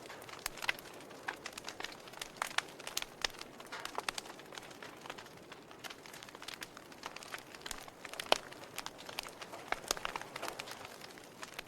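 Wood fire in a fireplace crackling: logs burning with irregular sharp pops and snaps over a soft hiss, one louder pop about eight seconds in.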